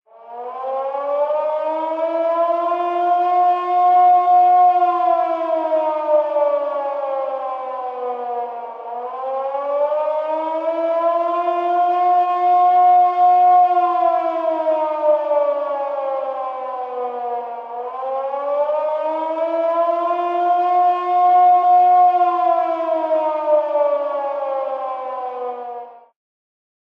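Outdoor tornado warning siren wailing in three slow cycles, each rising in pitch, holding, then sliding down, about nine seconds apart. It cuts off suddenly near the end.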